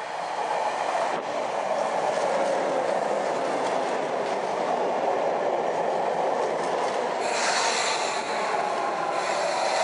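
Sagami Railway 8000-series electric commuter train pulling into the platform and running past close by, a steady rumble of wheels on rails that builds over the first two seconds. Near the end a brighter hiss or squeal joins for about two seconds as the train slows.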